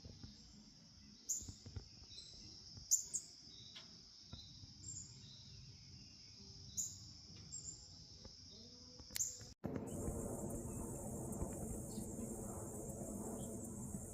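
Insects trilling steadily, with several sharp, down-slurred bird chip calls over the top. About nine and a half seconds in, the sound cuts to a different background: a higher-pitched insect trill over a low hum.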